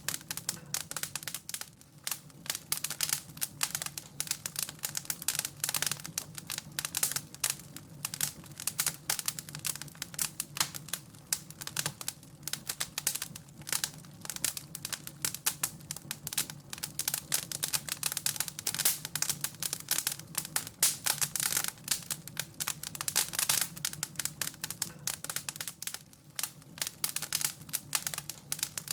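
Wood fire in a fireplace crackling and popping, with a dense, irregular run of sharp snaps over a faint low hum.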